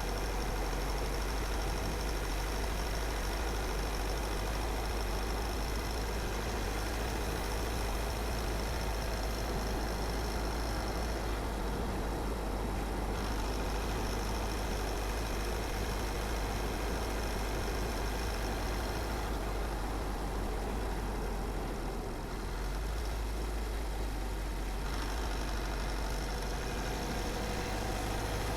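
A car driving steadily: a constant deep rumble of engine and tyres on the road with a hiss of road and wind noise, easing slightly about twenty-two seconds in.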